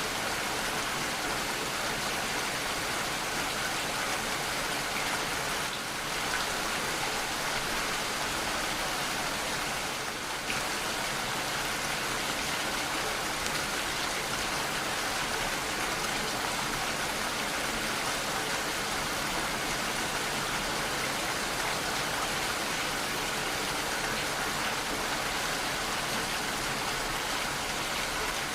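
Steady heavy rainfall, an even hiss of falling rain and drops on surfaces.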